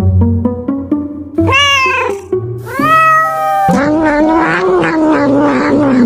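A cat meowing twice, then a longer wavering yowl, over plucked background music.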